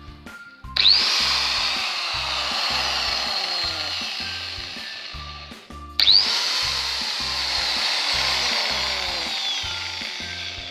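Small Makita angle grinder switched on twice: each time the motor whines sharply up to speed, then runs down over a few seconds with a falling pitch. The grinder has an extraneous rustling noise, which the owner goes on to trace to metal chips inside and unlubricated bearings.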